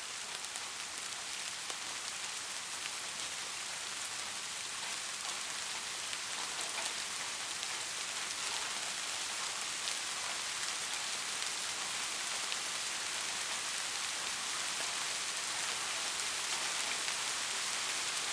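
Steady rain falling, an even hiss with many fine drop ticks, swelling slightly louder over the stretch.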